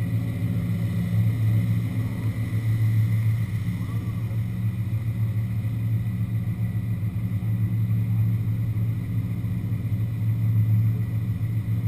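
Muscle car engine running with a steady low-pitched rumble, its loudness swelling a little now and then but with no sharp revving.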